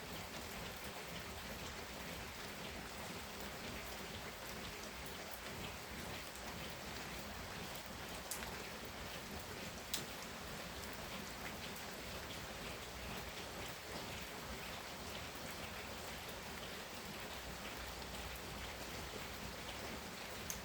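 Steady rain falling, with many small drops striking a surface throughout and two sharper, louder drop hits about eight and ten seconds in.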